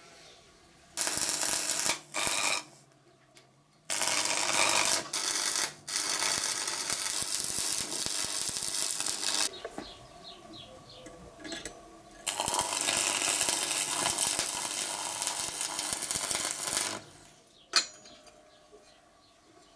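Stick (arc) welding on steel tube: a crackling hiss in several runs of a few seconds each, the arc struck and broken off again between them. A single sharp knock near the end.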